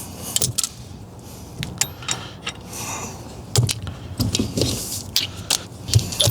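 Irregular metallic clicks, taps and light scrapes as a steering wheel puller and its bolts are handled and seated against the steering wheel hub.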